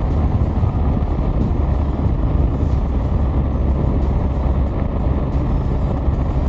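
BMW R 1250 GS boxer-twin engine running steadily on the move, a low drone mixed with wind and road rush.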